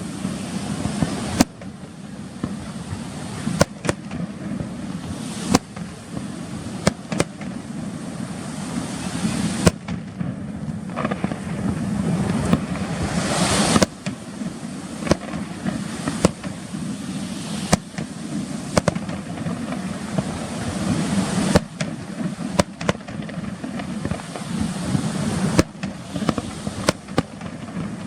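Fireworks display: aerial shells bursting in frequent, irregular sharp bangs over a continuous dense noise of further bursts. The noise swells for a few seconds around the middle and cuts off suddenly about fourteen seconds in.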